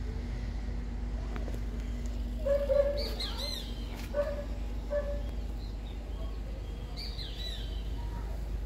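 Birds chirping and calling: a few short calls with quick sliding pitches, the loudest about two and a half to three and a half seconds in and another burst around seven seconds, over a steady low hum.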